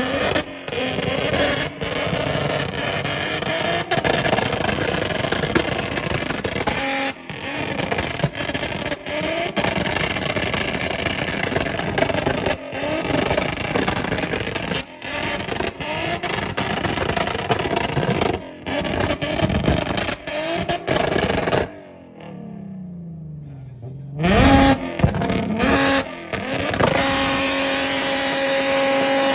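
Car engines revving repeatedly, the pitch rising with each rev, with abrupt jumps between clips. Near the end the sound settles into a steady engine drone.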